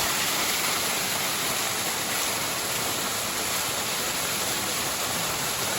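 Steady rush of water from a small waterfall running low in the dry season.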